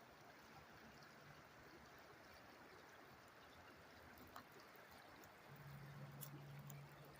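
River water flowing, faint and steady. A low steady hum joins it about five and a half seconds in.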